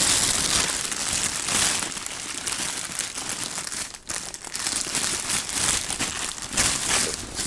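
Crinkling, rustling material being handled, continuous with a brief dip about four seconds in.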